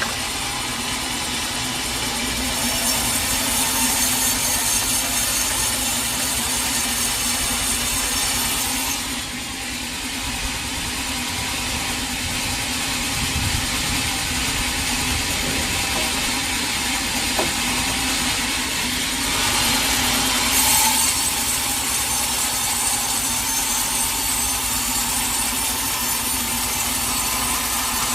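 Sawmill saw running and cutting through teak wood, a steady machine hum under a hissing cut that dips for a moment about nine seconds in and grows louder again about twenty seconds in.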